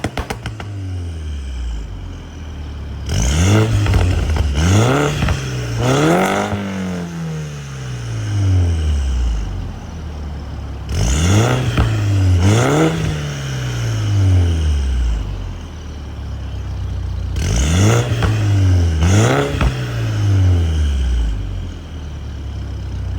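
Mini Clubman F54 JCW's turbocharged four-cylinder, breathing through an aftermarket full exhaust system, revved in three sets of two or three quick throttle blips. Each blip rises and falls back to idle. A quick run of crackles and pops sounds right at the start.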